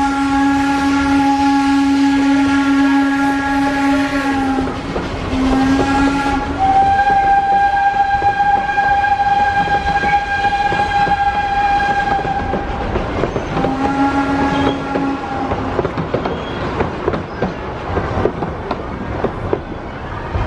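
A train horn sounds four blasts: a long one, a short one, a longer one at a different pitch, then a short one. After that comes the rumble and clatter of a passing train, its wheels clicking over the rail joints.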